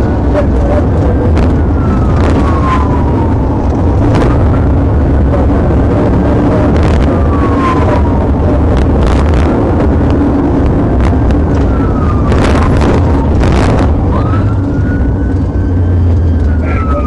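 Police car siren wailing, its pitch rising and falling every few seconds, over loud engine and road noise from the pursuing patrol car.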